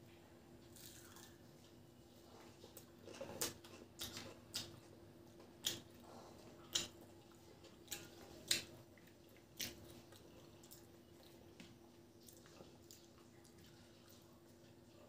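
Close-miked eating by hand: a person chewing fried food, with seven or eight sharp wet mouth clicks and smacks between about three and ten seconds in, and fingers squishing rice. A faint steady hum runs underneath.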